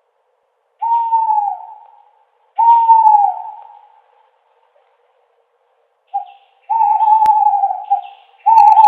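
Owl hooting: hoots about a second long, each dropping slightly in pitch. There are two hoots, a pause of a few seconds, then a short note followed by two more long hoots.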